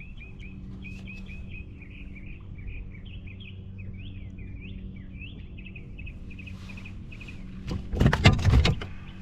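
A songbird twittering with quick, varied chirps over a steady low hum. Near the end comes a loud flurry of knocks and rattles lasting about a second.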